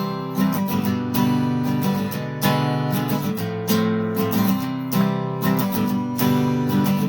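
Acoustic guitar strumming chords in a steady rhythm, an instrumental break in an acoustic punk song.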